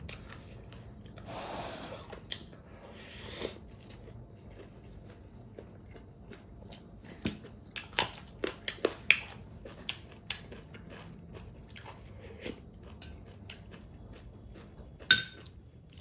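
Close-up eating sounds: food being chewed and crunched in the mouth, with two soft breathy noises early on, a run of sharp crunchy clicks in the middle, and one sharp ringing clink near the end.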